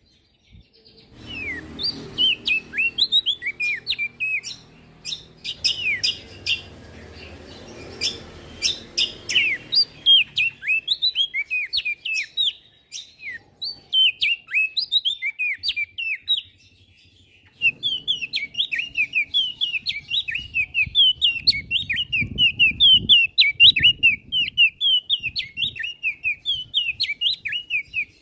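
A prenjak daun singing a fast, continuous run of high, sharp chirps, with a brief pause about two-thirds of the way through. A low background rumble sits under the song at times.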